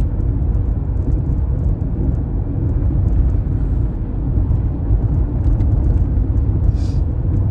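Steady low road noise and rumble inside a moving car's cabin.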